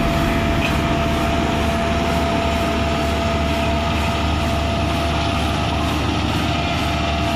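Diesel engine of a Komatsu PC200 hydraulic excavator running steadily, with a constant whine over the engine's low rumble.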